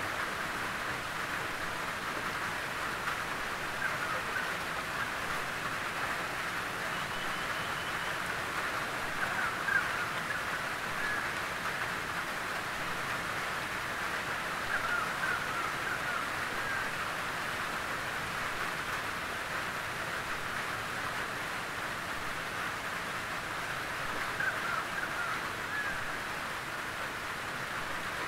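Gentle rain pattering steadily on a tin roof, an even noisy wash with no letup. A few brief louder sounds stand out over it, about a third of the way in and again near the end.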